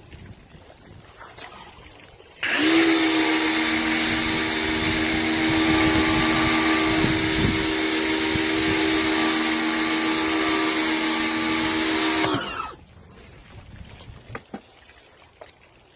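Sun Joe SPX1000 electric pressure washer running and spraying: a steady motor hum with a hiss of water that starts suddenly about two and a half seconds in and cuts off about ten seconds later. The motor runs only while the spray trigger is held.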